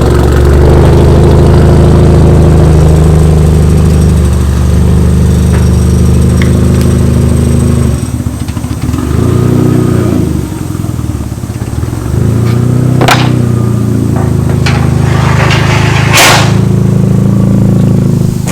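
Turbocharged Mazda Miata engine running loudly and being revved, its pitch rising and falling, with a couple of sharp cracks partway through.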